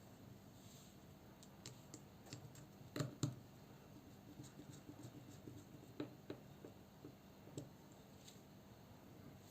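Small parts and tools of a folding knife being handled: a scatter of light clicks and taps, with two sharper knocks about three seconds in and a few more around six seconds.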